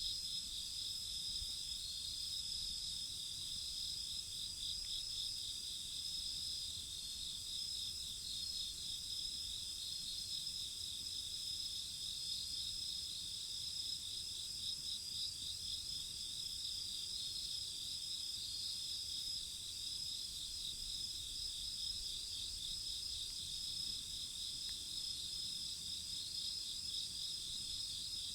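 Steady night chorus of crickets and other insects: several overlapping high trills, one pulsing rapidly, running on without a break.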